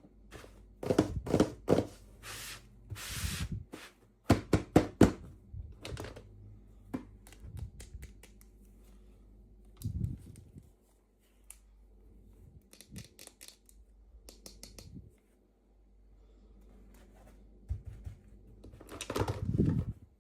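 Unboxing handling noise: irregular taps, clicks and knocks of small objects and packaging, with a brief rustling tear of packaging about two and a half seconds in and a busier cluster of handling near the end.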